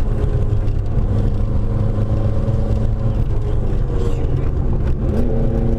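Renault 5 Alpine Turbo's turbocharged four-cylinder engine running under load, heard from inside the cabin. The engine note eases off about three to four seconds in and picks up again near the end as it comes back on the throttle.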